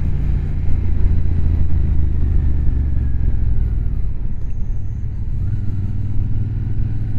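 Motorcycle engine running on the move, heard from the rider's own bike. The engine note eases off through the middle, then rises again about five and a half seconds in as the bike picks up speed.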